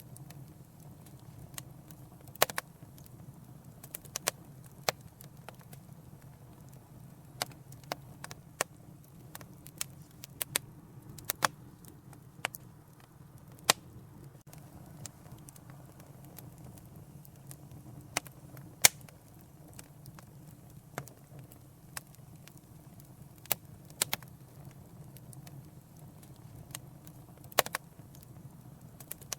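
Wood fire crackling in a fireplace: irregular sharp pops and snaps, a few every couple of seconds, over a low steady rumble of the flames.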